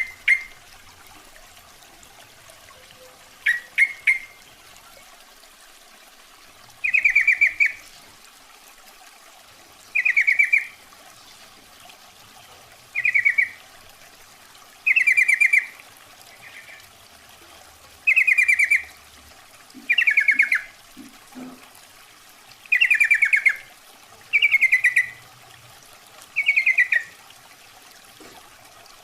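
Yellow-vented bulbul (trucukan) calling: about a dozen short phrases, each under a second, repeated every two to three seconds. The call is a female's call used as a lure to draw in males.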